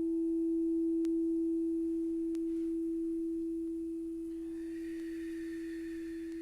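Crystal singing bowl sounding a steady, pure sustained tone. A fainter, higher ringing joins about four seconds in.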